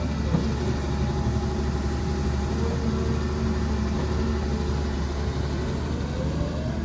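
Excavator's diesel engine running steadily under load, a deep constant hum, with a whine that glides up and down near the start and again near the end.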